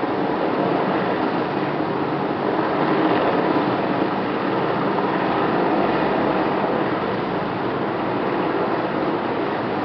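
BK 117 twin-turbine helicopter running: a loud, steady mix of engine and rotor noise with no change in level.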